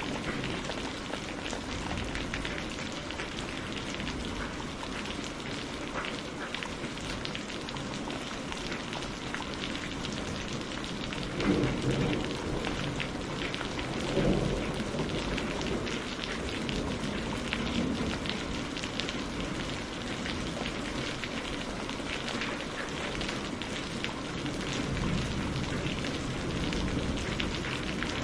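Steady rain with a thick patter of drops. Two short, low rumbles of thunder come near the middle.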